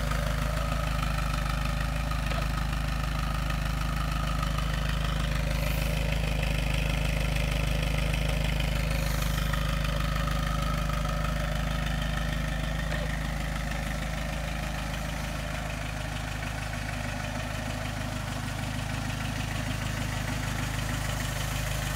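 1962 Fiat 1200 Spider's four-cylinder engine idling steadily.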